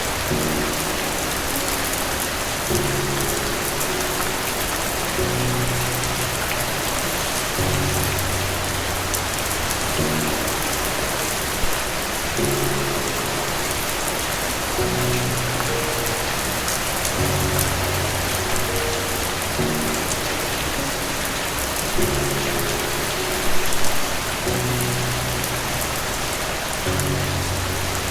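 Steady rain falling on a surface, with soft music underneath: low held chords that change every couple of seconds.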